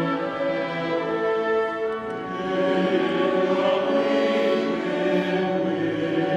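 Choir singing sustained chords with orchestral accompaniment; the sound grows fuller about two seconds in.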